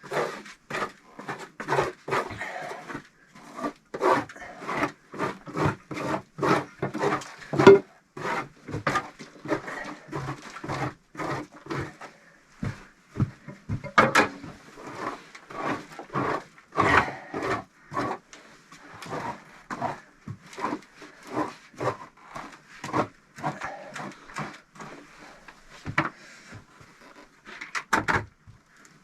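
Hand work on brick and clay: an unbroken run of short scrapes and knocks, several a second, with a sharper knock about halfway through.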